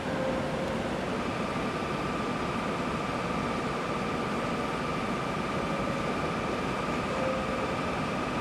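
E7 series Shinkansen train standing at the platform with its equipment running in a steady hiss and hum. About a second in, a steady high ringing tone begins and holds.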